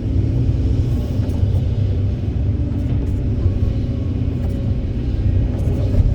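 Kobelco 200SK hydraulic excavator's diesel engine running under load: a steady low rumble, with faint whining tones that come and go.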